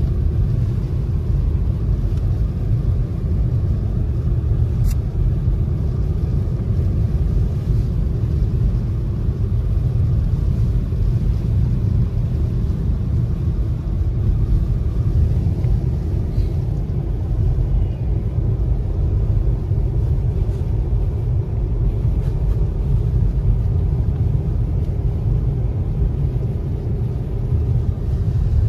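Steady low rumble of a car driving on a snow-covered road, heard from inside the cabin, with engine and tyre noise and no changes in pace. A single faint click about five seconds in.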